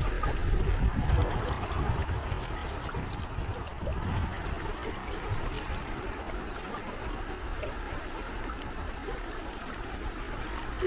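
Gentle sea waves lapping and trickling at the shore, a steady wash of water that is a little louder in the first two seconds.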